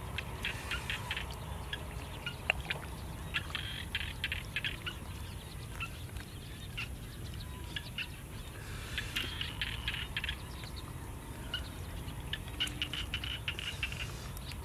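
A bird chirping in short bursts of rapid notes, four or five times, over a steady low rumble.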